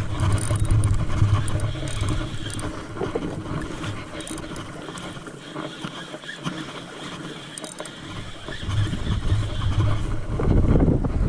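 Wind rumbling on the microphone over the wash of open water, easing off for a few seconds midway and picking up again near the end.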